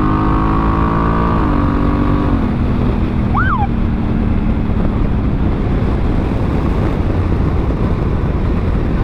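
Honda Africa Twin CRF1000L's parallel-twin engine pulling under acceleration, its pitch climbing and then stepping down twice as the DCT automatic gearbox shifts up. It then settles into a steady cruise buried under wind rush, with a brief rising and falling chirp a few seconds in.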